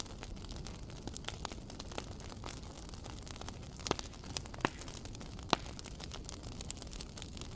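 Wood fire crackling, with scattered sharp pops over a low steady rumble; a few louder pops come in the middle.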